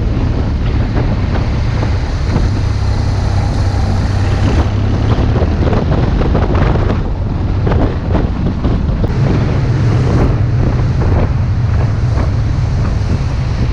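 Motorcycle engine running under way, with heavy wind buffeting on the microphone. The engine note steps up a little about nine seconds in.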